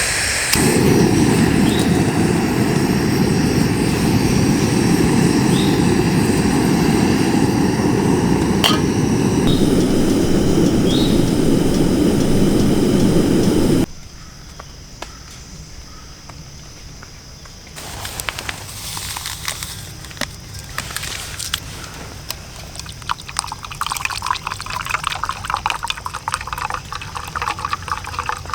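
A loud, steady rushing noise, heaviest in the low end and marked by a few short high chirps, cuts off abruptly about halfway through. After a quieter stretch come irregular crackling and swishing steps, like someone walking through wet undergrowth.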